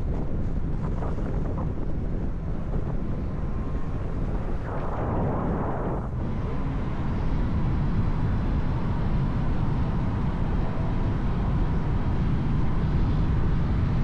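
Moving vehicle on the road: a steady rush of wind and road noise.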